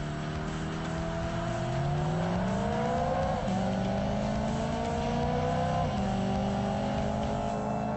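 BMW E92 M3's 4.0-litre V8 through an Eisenmann Inconel exhaust, accelerating through the gears. The engine note climbs steadily, then drops back about three and a half seconds in and again about six seconds in.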